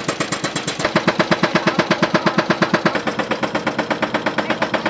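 Diesel engine of a ready-mix concrete truck running with a fast, even chugging of about nine beats a second, growing louder about a second in as the concrete is discharged.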